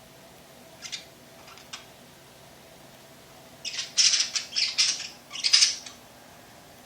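Birds giving harsh, raspy calls: two short faint ones in the first two seconds, then a loud run of about four calls past the middle.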